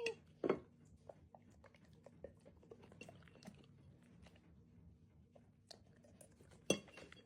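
Faint chewing: small irregular crunching clicks, with a sharper click about half a second in and another near the end.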